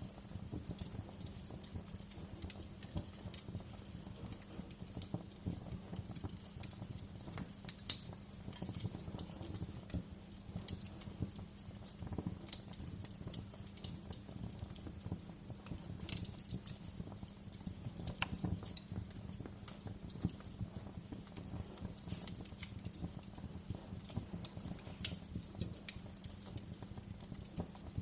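Wood fire crackling in a fireplace: a steady low rumble of burning with irregular pops and snaps, a few sharper ones standing out.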